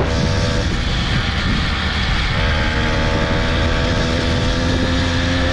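Small motorbike engine running at steady speed under way, with heavy wind noise on the microphone.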